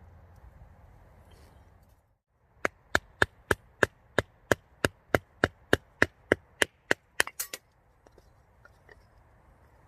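Wood being chopped: about fifteen sharp, evenly spaced strikes, roughly three a second, ending in a quick flurry of three.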